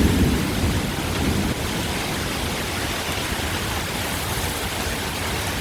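Torrential, wind-driven rain pouring down in a steady, heavy hiss.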